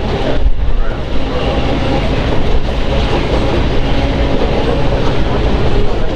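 Train running along the track: a steady rumble of wheels on rail, with some clickety-clack.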